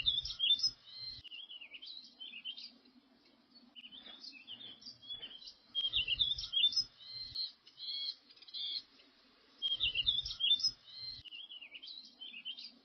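A bird singing: bursts of quick, high, warbling chirps about every four seconds, with fainter calls between them.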